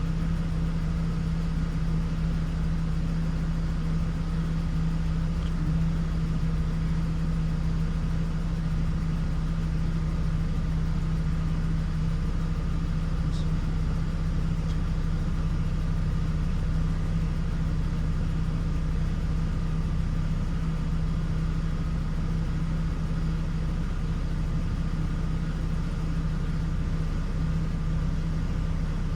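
2006 Hummer H3's 3.5-litre inline-five engine idling steadily shortly after a cold start, still cold and running in open loop.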